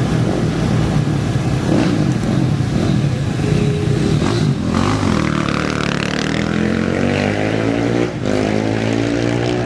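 Off-road race engine revving and accelerating away, its pitch rising through the gears, with short breaks as it shifts about four and a half and eight seconds in.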